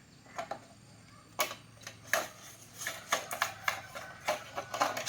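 Irregular light clicks and taps of small hand tools and parts being handled during an electronics repair, several coming in quick succession in the second half, over a faint steady low hum.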